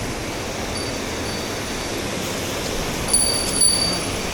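Rushing water of a mountain stream, with a small bell tinkling faintly a few times and more clearly about three seconds in.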